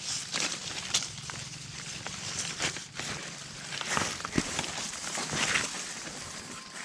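Irregular rustling and crackling of leaf litter and twigs, as from someone moving through undergrowth on foot, over a low steady hum that fades near the end.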